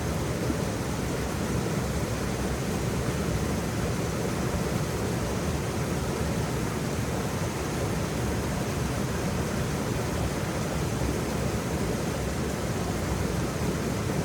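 Waterfall: a steady, even rush of falling water, heaviest in the low end, with no change.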